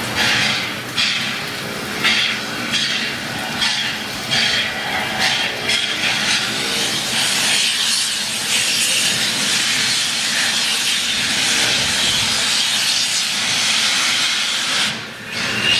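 Steam locomotive working slowly, its exhaust chuffing about once a second for the first few seconds, then giving way to a steady loud hiss of steam.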